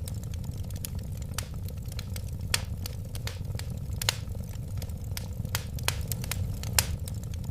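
Wood fire crackling: irregular sharp pops and snaps over a steady low rumble of flames. The loudest pops come about two and a half, four and nearly seven seconds in.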